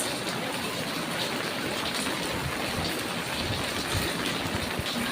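Steady rain falling: a continuous, even hiss of rain coming down.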